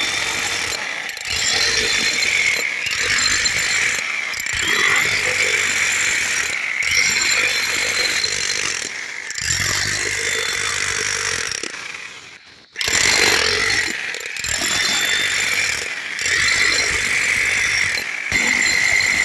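A power tool running in repeated spells, cutting out briefly every second or two, and stopping almost completely for a moment about twelve seconds in before starting again.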